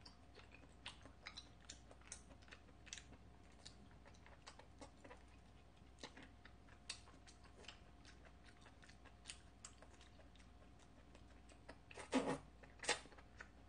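Faint close-up chewing of tender cooked octopus: soft, scattered mouth clicks and smacks. A short falling hum from the eater near the end is the loudest moment.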